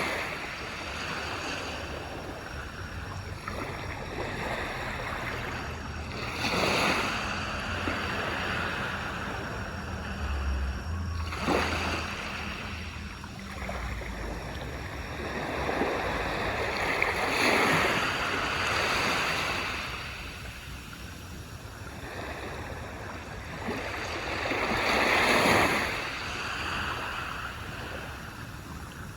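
Waves breaking and washing up on a beach. Each surge swells and fades, about one every five to eight seconds, over a steady wash of surf.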